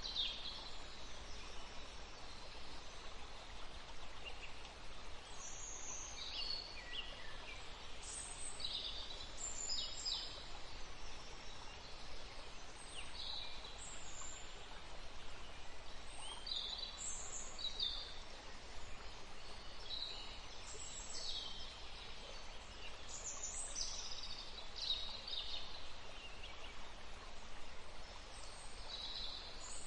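Forest birds chirping in many short, high calls scattered throughout, over a steady background hiss.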